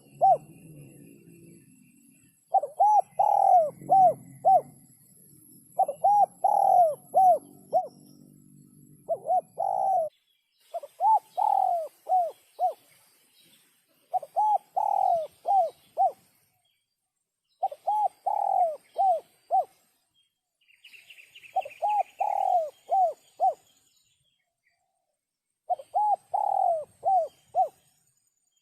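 Spotted dove cooing: about eight phrases of four to five quick, clear notes, each phrase repeated every three to four seconds. It is a 'sấm'-type crow call used as playback to rouse males and females.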